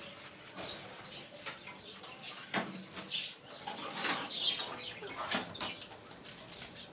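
Small birds chirping: short high calls scattered irregularly throughout.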